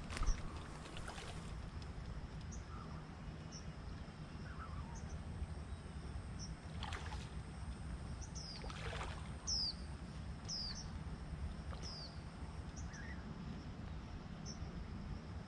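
Riverbank ambience: a low steady rumble under a thin, steady high insect drone. About halfway through, a bird gives a run of five or so short, falling high chirps.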